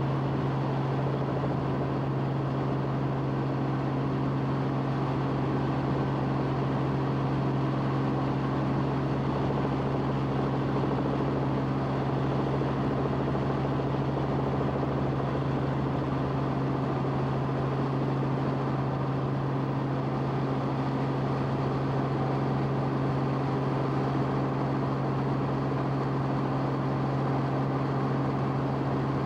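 Steady drone of an aircraft filming from the air, with a strong low hum and a constant pitch that does not change.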